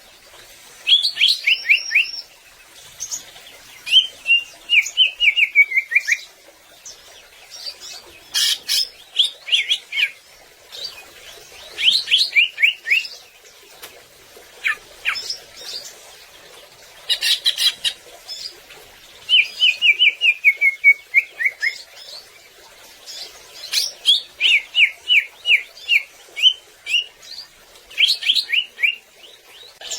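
Cucak ijo (greater green leafbird) singing: phrases of quick, descending whistled notes repeated every few seconds, broken by short harsh calls.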